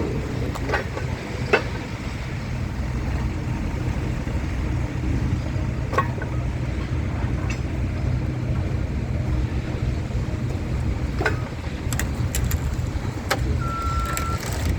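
A vehicle engine running steadily, with scattered clicks and knocks. Near the end a reversing alarm starts, sounding long, evenly spaced beeps.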